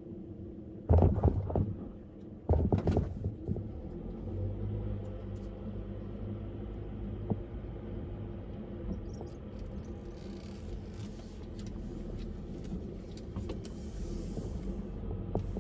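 Car driving on a parkway: steady engine and road noise. There are two loud thumps, about one and two and a half seconds in.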